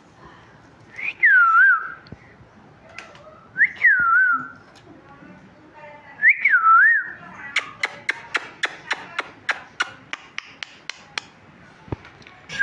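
Pet parrot whistling three times, each a short whistle that swoops up and down in pitch, then a quick run of about fifteen sharp clicks, roughly four a second.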